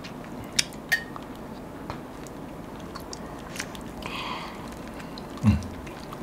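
People chewing and biting food close to the microphone, with a few small clicks and a short low thump about five and a half seconds in.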